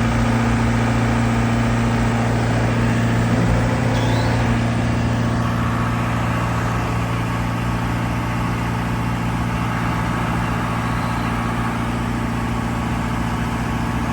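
Rippa RS20 skid steer's engine running at a steady, even speed, a constant hum with no revving.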